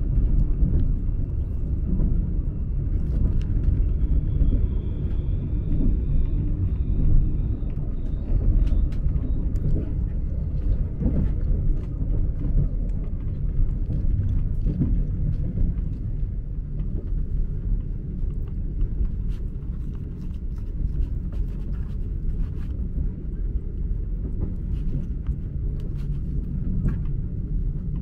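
Steady low rumble of a sleeper train running along the track, heard from inside its cabin, with light clicks of a plastic fork against a plastic meal tray and a faint high whine for a few seconds about four seconds in.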